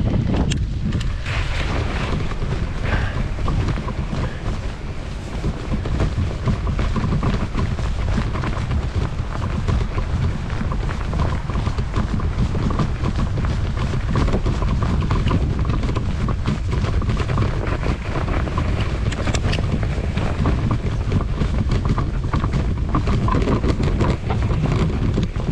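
Wind rumbling on the microphone of a bicycle ridden through snow, with steady tyre noise and many small clicks and rattles from the bike as it goes over the snowy path.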